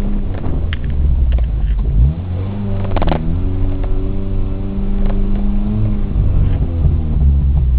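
Suzuki Samurai's engine running under load as the 4x4 drives over a rough dirt track, its pitch rising and falling with the throttle and holding steady for a few seconds in the middle. A short clatter comes about three seconds in.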